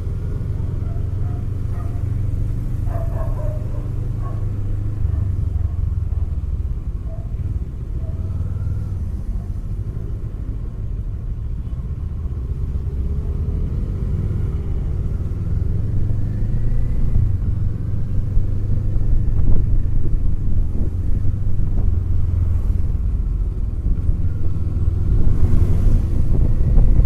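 Kawasaki Eliminator SE's parallel-twin engine running with a steady low rumble as the motorcycle rides through traffic, recorded onboard; the rumble grows louder in the last few seconds.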